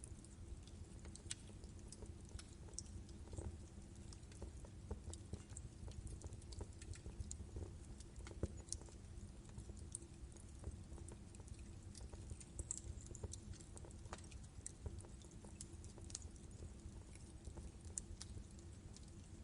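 Wood fire in a fireplace burning, logs crackling with frequent irregular sharp pops over a low, steady rumble of flame.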